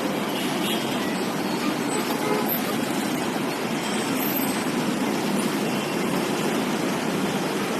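Steady din of dense motorbike and scooter traffic, many small engines running together, with brief horn toots here and there.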